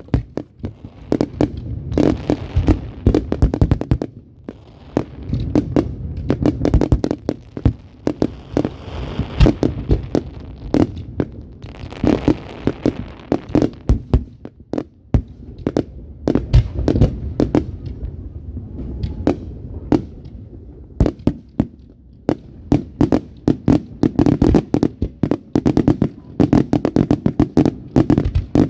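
Fireworks going off in a dense, unbroken barrage: many sharp bangs and pops a second, with stretches of crackling hiss.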